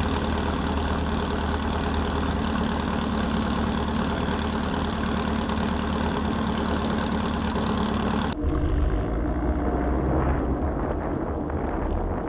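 Air-cooled Volkswagen flat-four engine running steadily. About eight seconds in, the sound changes suddenly to a duller, lower rumble.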